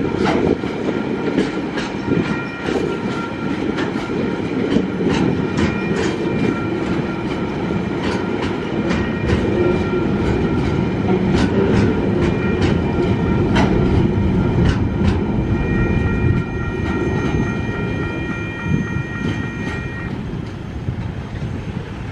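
Container wagons of a freight train rolling past on steel wheels: a steady rumble with sharp clattering clicks as the wheels cross rail joints. A high steady ringing tone runs through much of it and stops about 20 seconds in, and the sound falls away as the last wagon passes.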